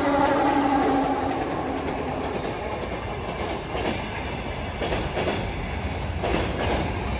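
Freight train of container wagons rolling past behind a 2TE116 diesel locomotive. The locomotive's steady tones fade over the first two seconds, leaving a continuous wheel rumble with irregular clacks over the rail joints from about four seconds in.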